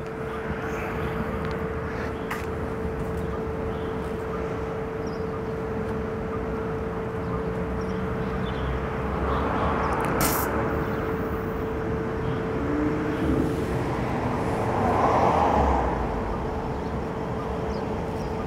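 Microwave oven running on full power with a steady hum, a tin of canned beans inside. A single sharp click about ten seconds in.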